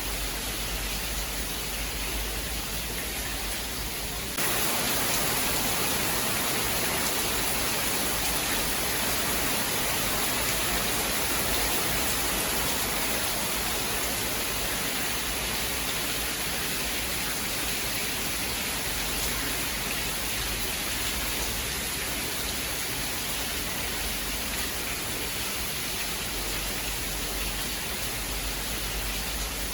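Steady heavy rain, an even hiss without thunder; about four seconds in it turns abruptly louder and brighter and stays that way.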